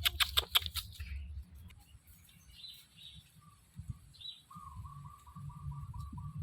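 Birds chirping, with short high chirps and a fast stuttering trill. A few sharp taps in the first second and a low rumble underneath.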